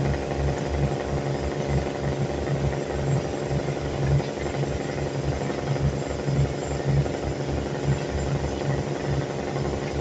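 Heavy diesel engine of barge-unloading machinery running steadily, with a rhythmic low throb.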